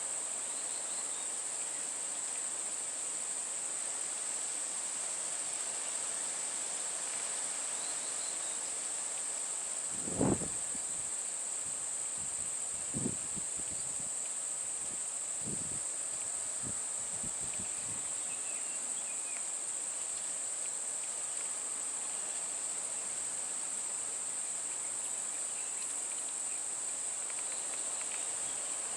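Steady, high-pitched insect chorus droning without a break. A handful of dull low thuds sound over it, the first and loudest about a third of the way in.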